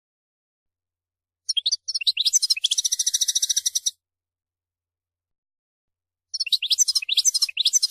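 European goldfinch singing: two bursts of rapid, high twittering song a few seconds apart, the first ending in a fast, buzzy trill.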